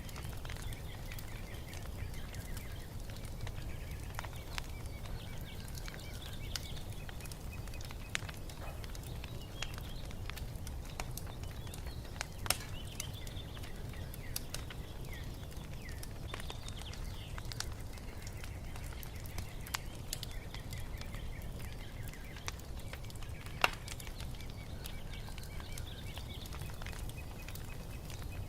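Wood fire crackling with scattered pops over a steady low rumble, two pops sharper than the rest about twelve and twenty-four seconds in, while small birds chirp and twitter in patches throughout.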